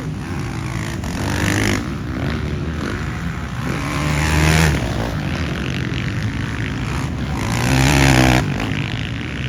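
Motocross bikes racing, their engines revving up and falling away, swelling louder three times as bikes pass.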